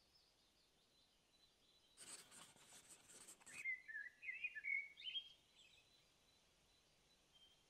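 Faint bird song. A short burst of rustling noise comes about two seconds in, followed by a louder run of quick chirping notes.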